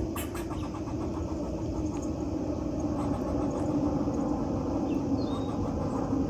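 Steady low rumble of background traffic, with a few short clicks near the start and one faint bird chirp about five seconds in.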